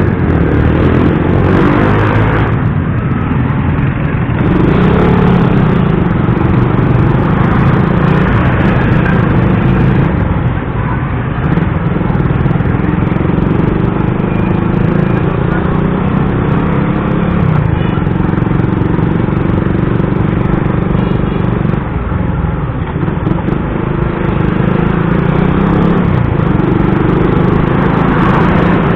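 A motorcycle running steadily in heavy road traffic, with the engine and road noise carrying on without a break.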